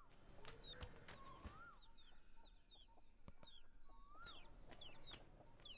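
Faint bird calls: short falling chirps repeated all through, with a longer whistled call that rises and falls, heard three times, and a few light clicks.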